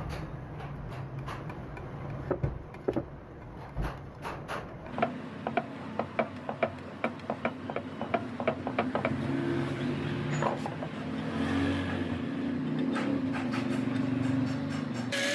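Workshop work on metal parts: a quick run of sharp clicks and taps, with a low steady motor hum building in the second half.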